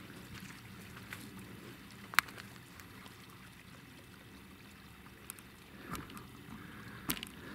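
Faint, steady running water, with one sharp click about two seconds in and a few lighter knocks near the end.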